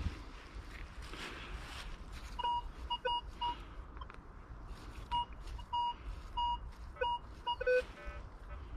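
Minelab Vanquish 440 metal detector sounding a run of short, repeated target beeps, with a lower tone near the end, as the coil sweeps over a buried target that the detectorist judges to be trash. Rustling of the coil against ground cover is heard before the beeps begin.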